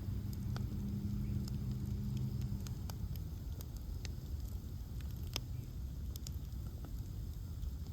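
Bonfire of ash logs burning, with scattered sharp crackles and pops over a steady low rumble; one louder pop about five seconds in. A low hum under it fades out about three seconds in.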